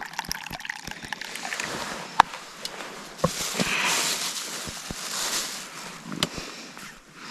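Tea being poured into a cup in two spells, a hissing pour, with a few sharp clicks and knocks as the cup and flask are handled.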